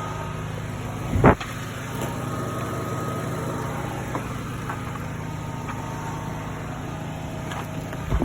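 2022 Mazda CX-3's 2.0-litre four-cylinder petrol engine idling steadily, with one loud thump about a second in.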